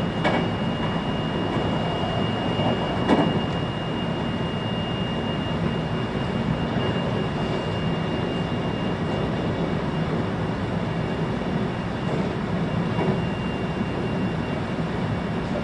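Running noise heard inside a 521-series electric multiple-unit train: a steady rumble from the wheels and running gear, with a thin high whine that slowly fades away. Two brief knocks come near the start, the louder one about three seconds in.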